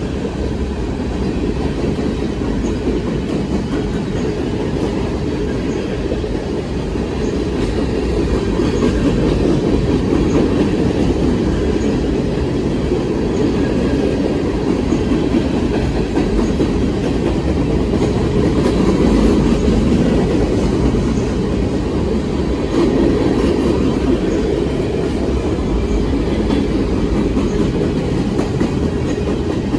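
Railcars of a passing train rolling by, their wheels clacking steadily over the rail joints.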